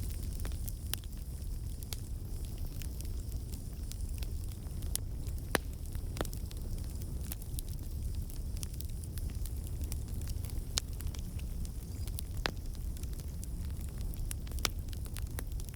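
Campfire burning with a steady low rumble and scattered sharp crackles and pops of burning wood, one louder pop about five and a half seconds in.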